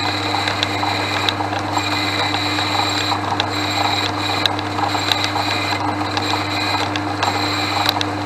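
Portass Model S lathe running, turning down a steel round bar: a steady motor and drive hum with a noisy cutting sound and scattered small clicks.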